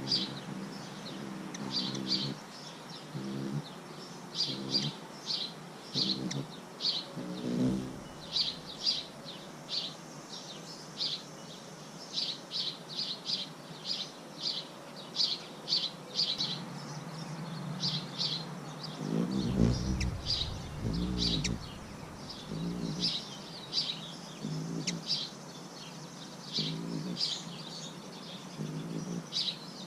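Birds chirping over and over: many short, high chirps in quick runs. Lower-pitched calls break in now and then, loudest about twenty seconds in.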